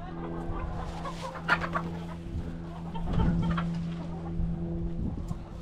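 Chickens clucking, with a few short calls, over a steady low mechanical hum.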